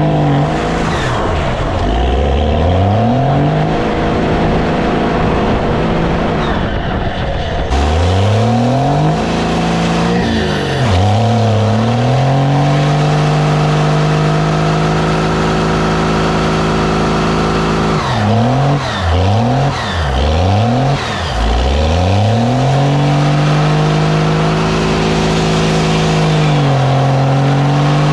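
Motor vehicle engine running loudly, its pitch several times dropping low and climbing back up as it is revved and let off, holding steady in between.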